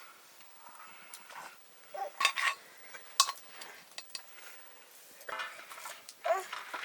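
Metal utensils clinking and scraping against cooking pots and dishes, with a cluster of clinks about two seconds in and a sharp single clink about a second later.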